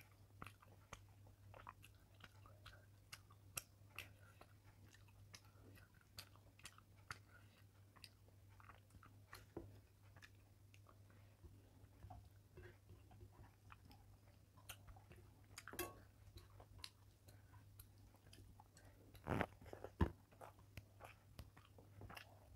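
Quiet, close-miked eating by hand: soft chewing and wet mouth sounds mixed with fingers squishing rice and fish on a plate. Many small clicks run through it, with two louder ones near the end, over a steady low hum.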